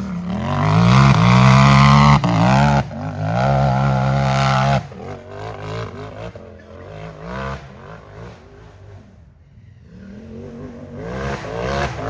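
Unlimited-class UTV engine revving hard in rising and falling surges, dropping off sharply about five seconds in to a fainter running sound that fades almost away, then building again near the end.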